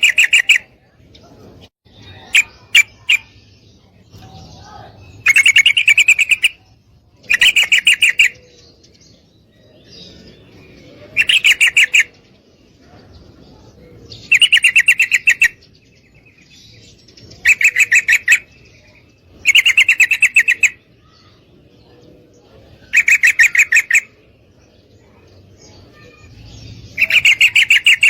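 Yellow-vented bulbul (trucukan) calling in repeated chattering bursts, each about a second of rapid pulsed notes, coming every two to four seconds, with a brief group of three quick notes a couple of seconds in. The call is the one used to lure males into answering, presented as a female's.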